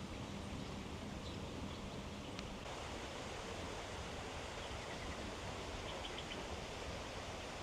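Steady outdoor garden ambience, an even hiss-like background, with a few faint high chirps about six seconds in.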